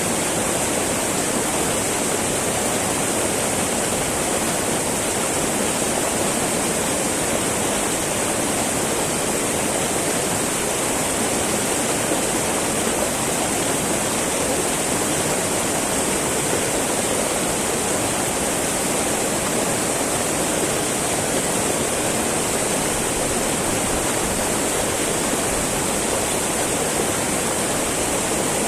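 Small mountain river babbling over rocks, a steady rush of flowing water.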